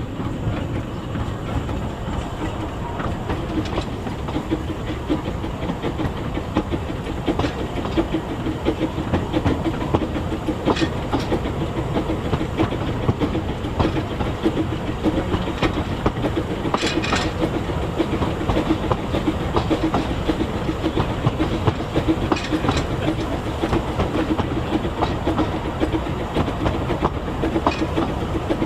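Narrow-gauge railway train running along the track, a steady rumble with the wheels clicking over the rail joints.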